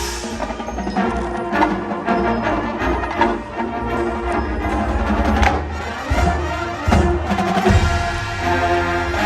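High school marching band playing its field show: sustained wind and brass chords with percussion, and sharp percussion hits several times through the passage.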